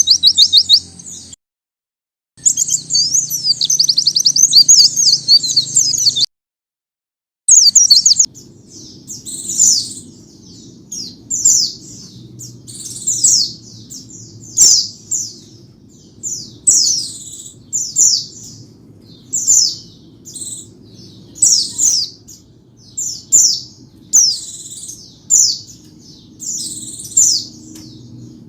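White-eye (pleci) singing: fast, high twittering song, cut off twice by a second of dead silence in the recording, then from about eight seconds in short high chirped phrases repeated about once a second over a faint low background noise.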